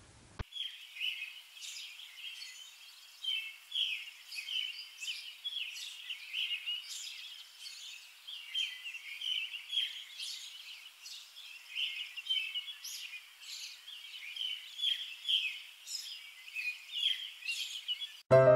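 Songbirds chirping and singing, a steady chorus of many short, high calls.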